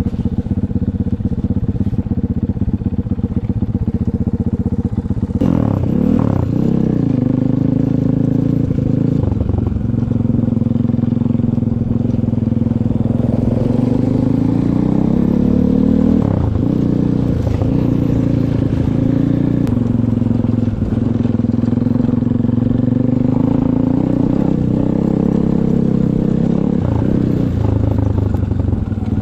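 Small off-road vehicle engine running loud, idling steadily at first, then about five seconds in pulling away and revving up and down repeatedly as it rides.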